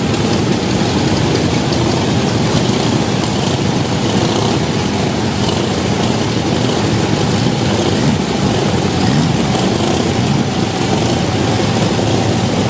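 Antique motorcycle engines running, a loud and steady mechanical noise.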